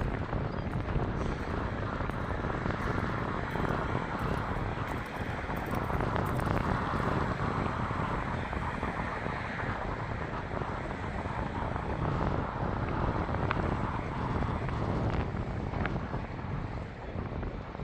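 Steady rumbling running noise of a train crossing a bridge, mixed with wind noise, with a couple of faint clicks late on.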